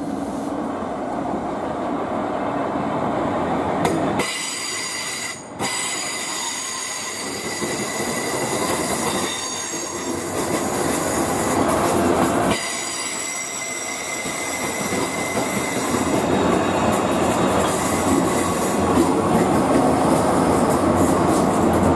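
Passenger train moving along the platform with a continuous rumble of wheels on rails. From about four seconds in to about twelve seconds in, a high metallic squeal of several tones sits over the rumble.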